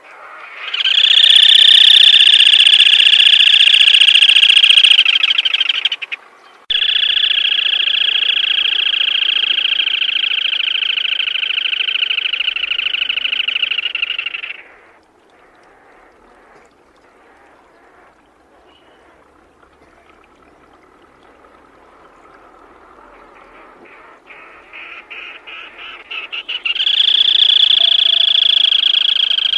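Black-tailed crake giving long rattling trills, three bouts of several seconds each. A quieter gap falls in the middle, and near the end a run of separate notes speeds up into the last trill.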